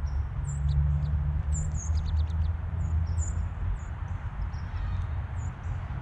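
Birds calling with short, high chirps, scattered through and in quick runs of several notes, over a steady low rumble.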